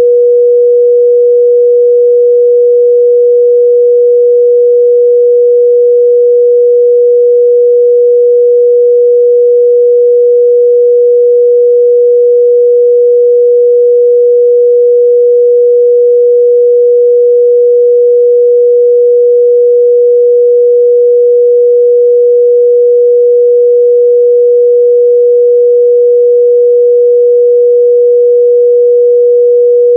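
A steady, loud 484 Hz sine-wave test tone, one pure pitch held without change, used to check the midrange response of speakers and headphones.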